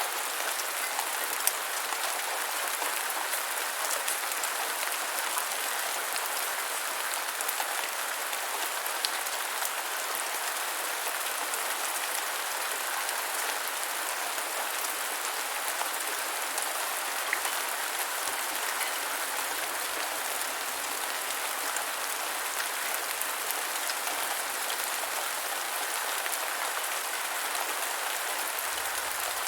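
Steady rain falling on the ground: an even hiss dotted with the sharp ticks of individual drops, a few standing out a little louder.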